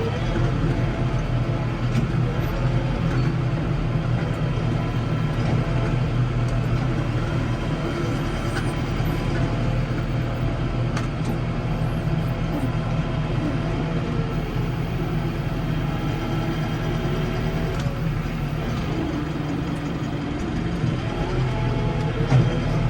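Case 115U tractor's engine running steadily under load, its pitch slowly rising and falling several times as the revs change, a little louder near the end.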